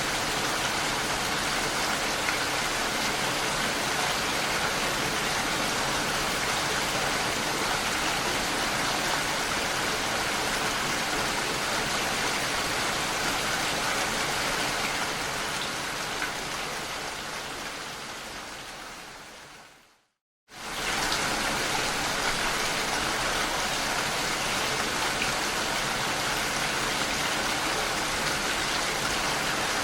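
Steady rain. About two-thirds of the way through it fades away to a half-second of silence, then comes straight back at full level.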